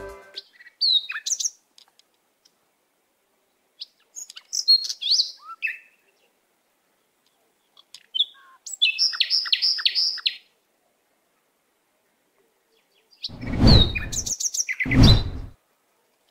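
Birds chirping: scattered short high calls, a quick run of about five notes midway, then two louder, fuller bursts near the end.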